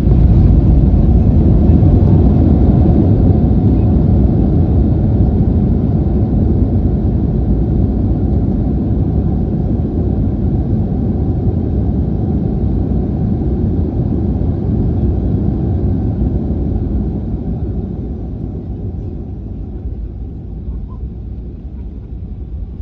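Airliner landing, heard from inside the cabin: a loud, steady low rumble that fades steadily over the last several seconds.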